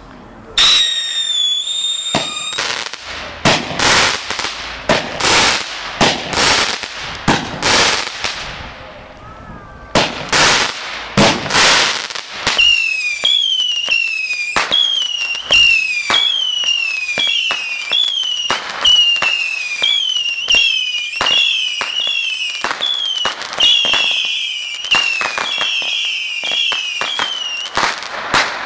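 Consumer fireworks going off: a short whistle, then a string of sharp bangs and crackling, then a long run of rapid whistles, each falling in pitch, with pops among them.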